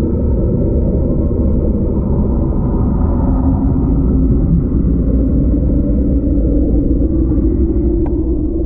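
Washing machine running, a steady low rumble that holds level throughout.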